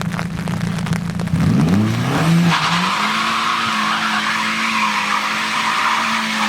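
Car engine revving up about a second and a half in, then held at steady high revs while the tyres squeal and skid for about four seconds.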